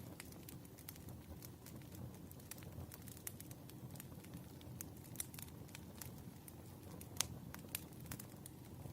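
Wood fire crackling: irregular sharp pops and snaps, one louder pop about seven seconds in, over a low steady rush of flames.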